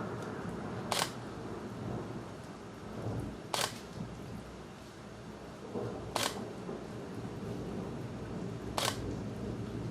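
Steady low rumble of night storm ambience, trailing off from thunder, with a sharp click repeating evenly about every two and a half seconds, four times.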